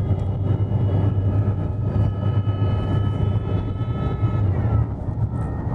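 Car driving at speed, heard inside the cabin: a steady low road rumble and tyre noise, with a faint high whine that slides down and fades about four and a half seconds in.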